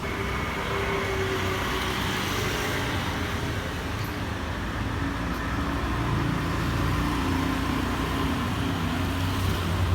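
Steady low rumble of road traffic, with a faint hum running through it.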